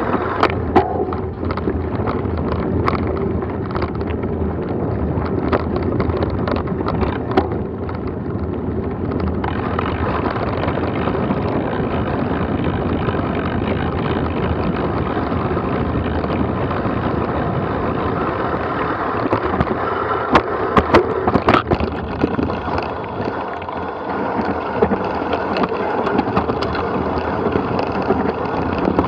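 Steady wind rushing over the microphone during a downhill ride on a rough trail, with scattered rattles and knocks and a burst of louder knocks about two-thirds of the way through.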